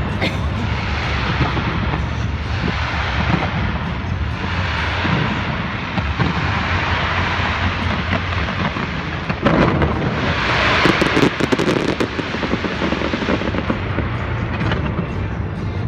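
Large fireworks display: shells bursting in a continuous run of low booms and crackling, with a dense flurry of sharp crackles about ten to twelve seconds in.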